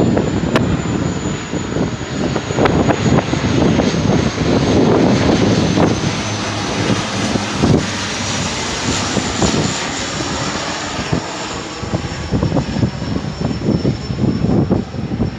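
Porter Airlines Dash 8-400 turboprop passing on its landing approach: a steady engine-and-propeller drone with a thin high whine that slowly falls in pitch. Gusts of wind on the microphone rumble underneath.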